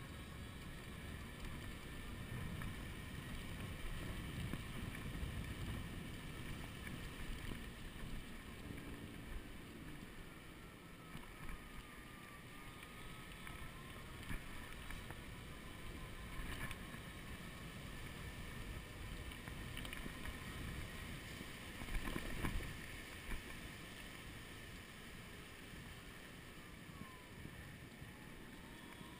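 Wind buffeting the microphone during an e-bike ride, with the faint whine of a Golden Motors 48-volt, 1000-watt rear hub motor rising and falling in pitch as the speed changes. A short bump about three quarters of the way through.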